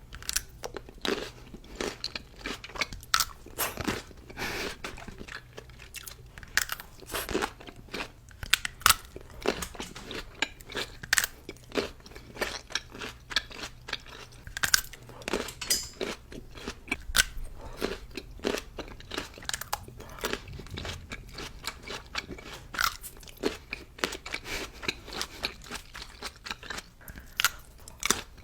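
Close-miked eating: chewing and biting food, with many irregular crisp crunches and mouth clicks.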